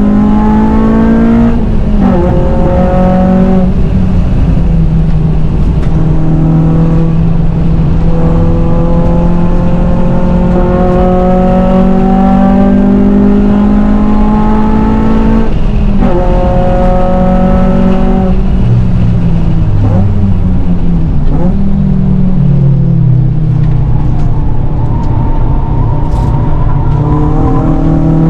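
Honda Civic Type R's K-series four-cylinder engine, fitted with a cat-back exhaust, pulling hard at high revs, its pitch climbing through the gears. It drops sharply at upshifts about a second and a half in and again around sixteen seconds. It falls away through several seconds while slowing later on, then climbs again near the end.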